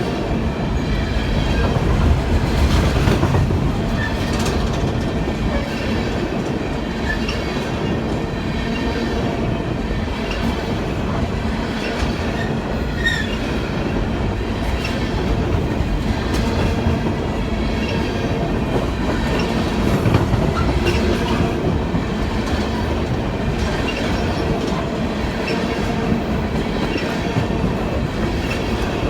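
Train rolling along the track: a steady rumble of wheels on rail with clicks over the rail joints. A brief faint wheel squeal comes about halfway through.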